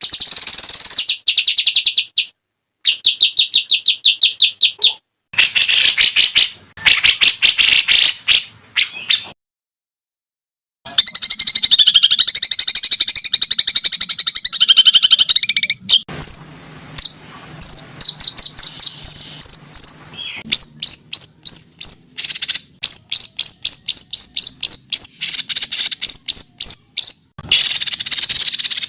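Songbird masteran (bird-song tutoring) recording: rapid high-pitched trills and fast series of sharp chirping notes, pieced together with abrupt cuts and a silent gap of about a second and a half near the middle.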